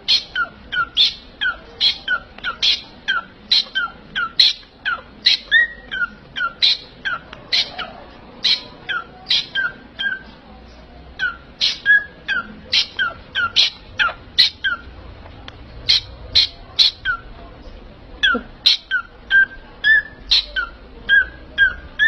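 A parrot calling in a rapid string of short, sharp squawks, about two a second, with a couple of brief pauses.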